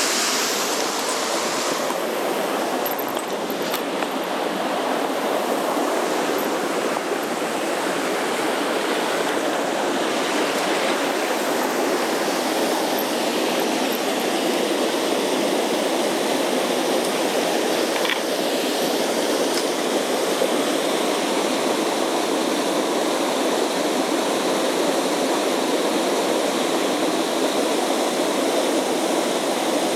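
Mountain stream water rushing over rocks, a steady, unbroken noise.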